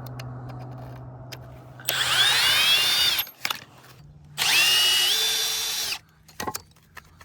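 Cordless power drill run twice, each time for about a second and a half, its motor whine rising in pitch as it spins up and then holding steady. A low steady hum sounds under the first run.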